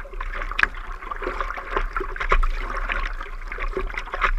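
Water splashing and sloshing around a surfboard in the surf, with many short irregular splashes over a steady low rumble.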